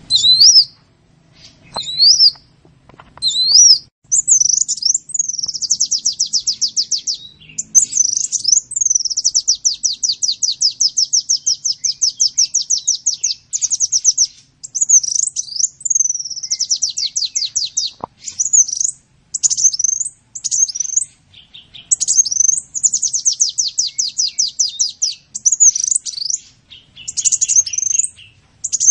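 Sunbird song: high, sweeping chirps alternating with rapid trills of evenly repeated notes, each trill lasting two to three seconds.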